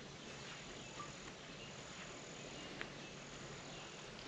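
Faint outdoor morning ambience of insects, crickets or similar, trilling steadily at a high pitch, with a few faint short chirps.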